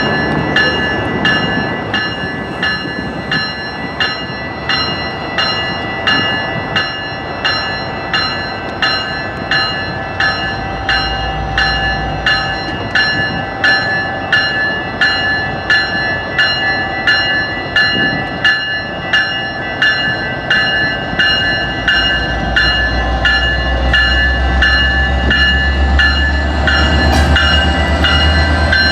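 Railway bell ringing steadily at about one and a half strokes a second. A diesel locomotive's low engine rumble swells over the last several seconds as the train comes on.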